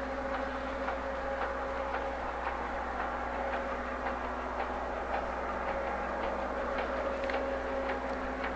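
A train running on the line: a steady mechanical drone with irregular light clicks.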